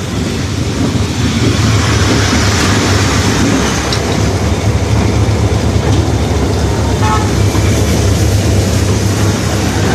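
Pakistan Railways train running, a loud steady rumble of the locomotive and carriages, with a brief high tone about seven seconds in.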